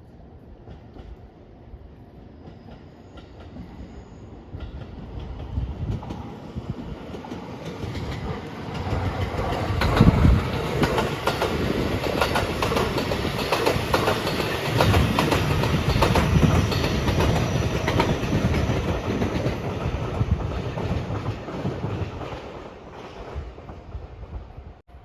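An electric train passing at speed over a level crossing. Its wheels clatter over the rail joints, swelling from about five seconds in, loudest through the middle and fading away near the end.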